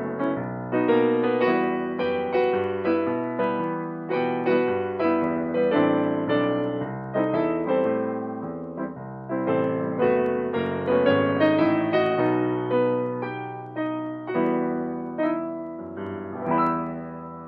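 Solo piano music: chords and melody notes struck and left to ring, the last chord dying away near the end.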